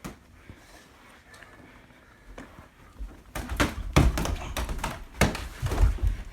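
A quick knock, then about three seconds in a rapid, irregular run of heavy thuds and knocks: two people starting to fight, punches landing and bodies and feet scuffling.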